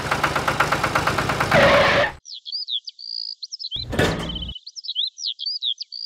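A small motor running with a fast, even putter for about two seconds, cutting off suddenly; then birds chirping, quick high tweets and trills, with a short low rumble about four seconds in.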